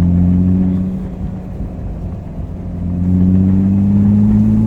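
BMW E30's swapped-in engine pulling under hard acceleration, heard from inside the car: the revs climb, ease off about a second in, then climb again from about three seconds in.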